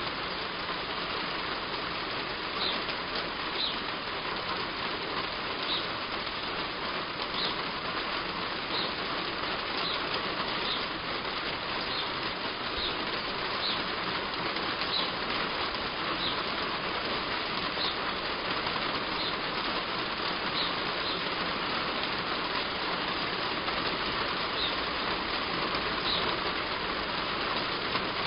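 Heavy rain falling steadily on a roof, with a bird's short high chirps coming every second or so through most of it.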